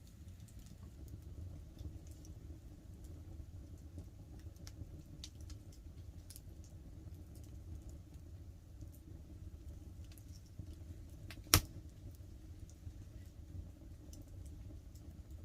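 Wood campfire crackling with scattered small snaps and one sharp, loud pop about eleven and a half seconds in, over a steady low rumble.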